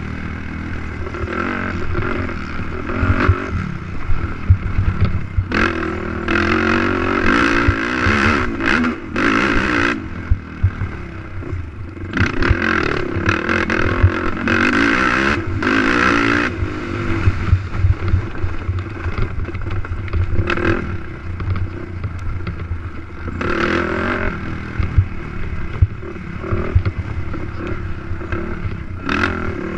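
Racing ATV's engine revving up and falling off again and again as the quad is ridden hard, with frequent knocks and rattles from the machine over rough ground.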